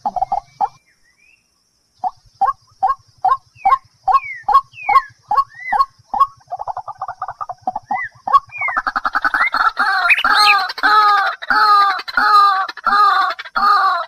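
A bird calling: a run of short, upward-gliding notes about two or three a second, then from about halfway a faster string of louder, harsher calls. There is a brief silence about a second in.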